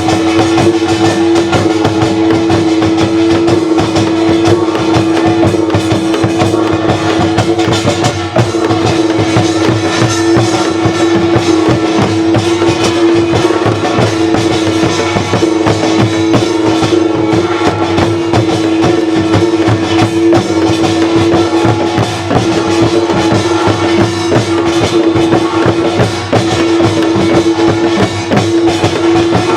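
Korean traditional folk music: a percussion ensemble of drums beating a dense, unbroken rhythm over one steady held note.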